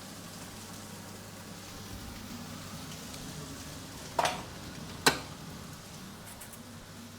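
Vegetables frying in a stir-fry pan with a steady low sizzle, and two sharp knocks, about four and five seconds in, from a utensil or pan.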